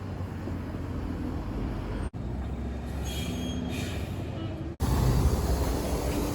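Subway train running, a steady low rumble with faint squeals. The sound drops out briefly twice where clips are joined and is louder after the second break.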